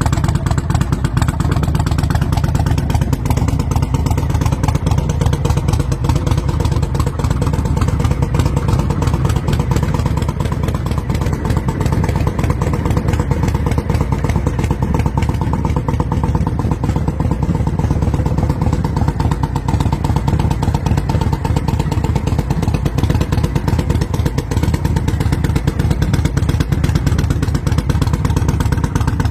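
Harley-Davidson V-twin motorcycle engine running steadily, a loud, even, rapid beat of exhaust pulses with no big revs.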